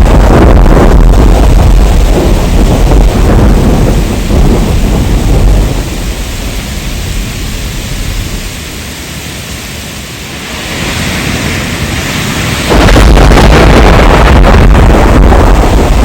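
Heavy rain with a deep rolling thunder rumble. The rumble fades away in the middle, leaving a lighter rain hiss, then comes back suddenly about three-quarters of the way through.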